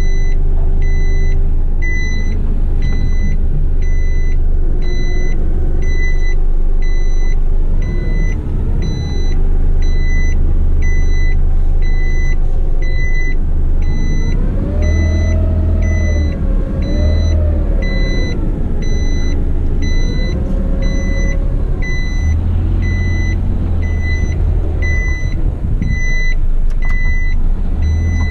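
Heavy rigid truck's diesel engine running at low speed while a reversing alarm beeps steadily, about once a second. About halfway through, the engine note rises and falls a few times as the truck is manoeuvred.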